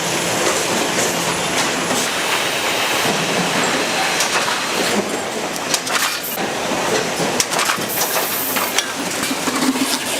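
Ice cream production-line machinery running, a steady mechanical din with continuous clattering and frequent sharp clicks.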